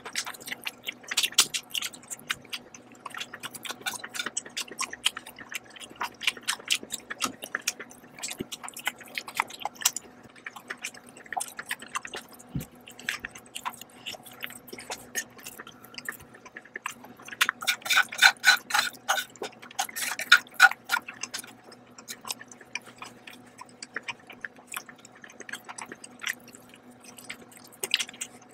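Close-miked chewing of stir-fried instant noodles: a steady stream of small wet clicks and smacks from the mouth. The sounds grow louder and denser about two-thirds of the way through.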